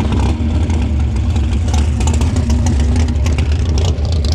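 A vehicle engine running steadily at a low, even pitch, with a busy rattle on top.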